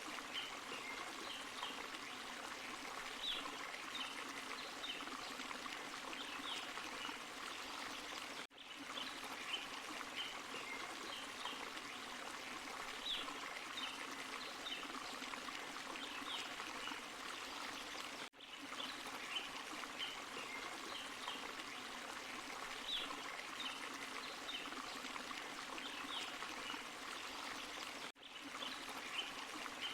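A forest stream and small waterfall running, a steady rush of water with trickling and splashing over the top. The sound dips briefly three times, about every ten seconds.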